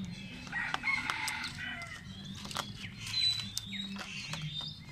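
Several bird calls overlapping, with short chirps and a number of sharp clicks, over a low steady hum.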